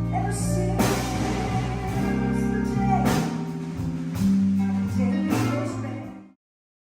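Blues band playing live: guitar with bass and drums, cymbal crashes a few times, and a held, bending guitar note. The music cuts off abruptly about six seconds in.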